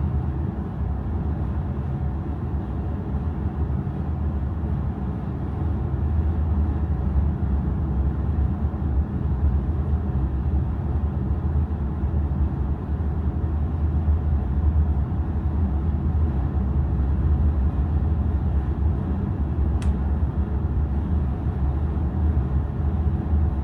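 Steady low rumble and hum of the car ferry Kitakami's engines, heard aboard while under way, with a brief click about twenty seconds in.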